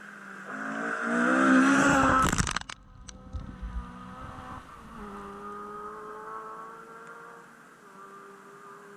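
Rally car accelerating hard, its engine note rising to a loud peak about two and a half seconds in, then dropping away suddenly. After that the engine carries on more quietly at a steadier pitch and fades as the car moves off, with a few sharp clicks just after the drop.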